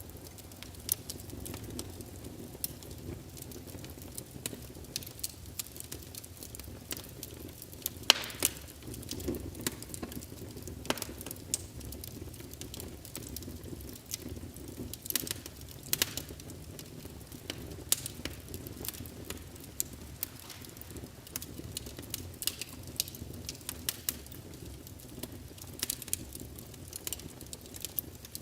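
Wood fire crackling in a fireplace: irregular sharp pops and snaps over a steady low rumble, with one louder pop about eight seconds in.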